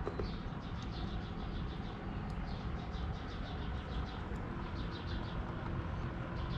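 Small birds chirping in quick runs of short high notes, over a low steady rumble.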